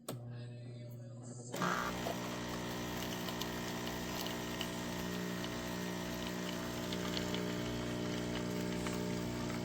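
Café Affetto automatic espresso machine running: a low hum starts, then about a second and a half in a louder steady mechanical drone takes over and holds.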